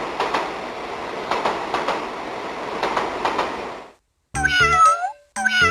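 Recorded train sound effect from a VTech Pop-Up Friends Train toy's speaker: a steady rumbling run on rails with clickety-clack clicks for about four seconds, which cuts off. After a short gap, a toy jingle with gliding, meow-like tones and bass notes starts near the end.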